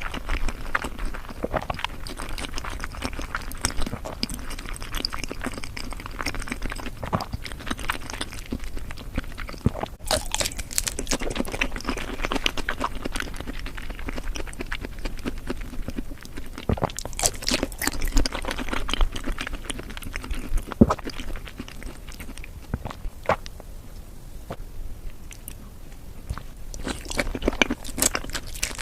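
Close-miked biting and chewing of raw seafood sushi: wet, sticky mouth sounds with many crisp, irregular clicks and smacks, busiest about ten seconds in and again a little later.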